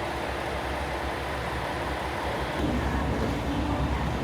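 Train running on the rails: a steady rumble and rushing noise, with a low hum joining about two and a half seconds in.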